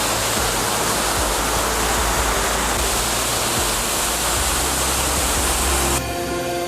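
Waterfall, a steady loud rush of falling water. It cuts off suddenly near the end as electronic background music starts.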